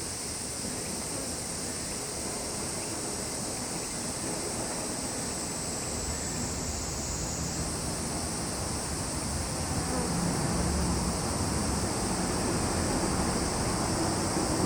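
Summer insects trilling in a steady, continuous high-pitched chorus, over a low rushing noise that slowly grows louder.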